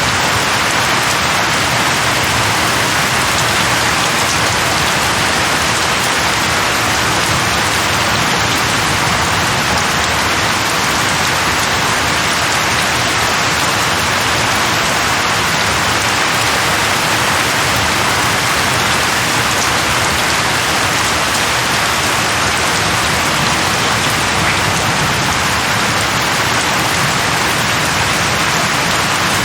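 Steady heavy rain falling on leaves, an even unbroken hiss with no thunder.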